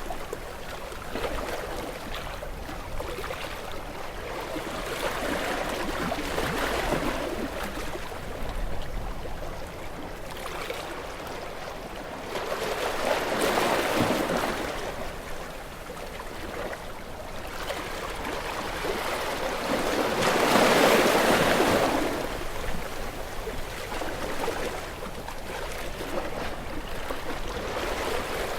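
Sea waves washing against shore rocks, a rushing hiss that swells and eases, with one surge about halfway through and the biggest about three-quarters of the way in.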